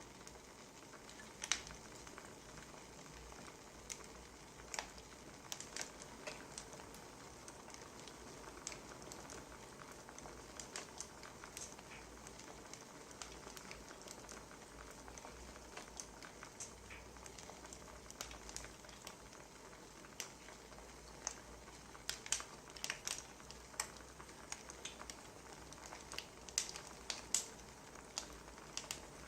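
Wood fire crackling: irregular sharp pops and snaps over a soft steady hiss, with small clusters of pops near the end.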